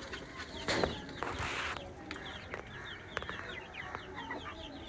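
A flock of baby chicks peeping: a steady chatter of many short, high, falling chirps, with a brief burst of scuffling noise in the first couple of seconds.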